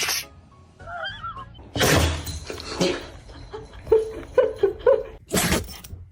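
A dog sneezing: a sudden, sharp burst of noise about two seconds in, with more short bursts near the end.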